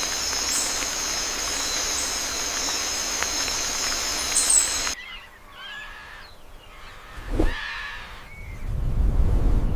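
Steady, dense high-pitched outdoor ambience that cuts off abruptly about five seconds in. Quieter ambience follows, with a few short, arched bird chirps, a single thump, and a low rumble near the end.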